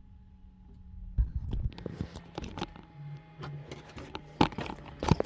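Quiet hum, then about a second in a run of irregular knocks, clicks and rustles begins and carries on, with a few louder knocks near the end.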